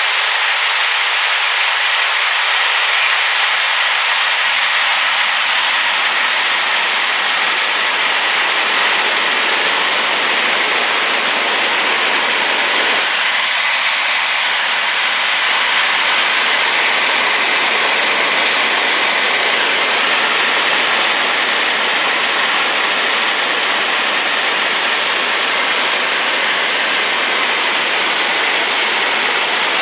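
Rain-swollen waterfall pouring: a loud, steady, hissing rush of falling water, with a deeper rumble filling in about halfway through.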